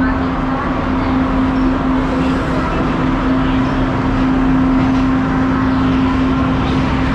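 Passenger train running, heard from inside the carriage: a steady loud rumble with a constant low hum.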